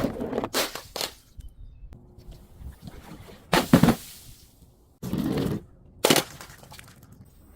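Objects being crushed: a series of sharp crunching cracks, the loudest pair about three and a half seconds in and a longer half-second crunch about five seconds in.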